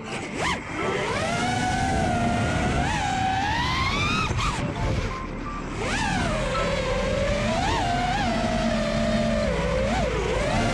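FPV racing quadcopter's brushless motors whining, the pitch climbing and dropping sharply again and again as the throttle is punched and chopped.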